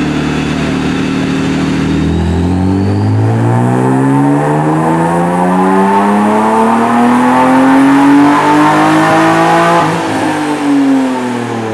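Supercharged BMW E36 M3 straight-six on a chassis dyno, making a full-throttle pull: the revs climb steadily from low to high for about seven seconds. Then the throttle closes and the revs fall away, with one short blip of the throttle near the end.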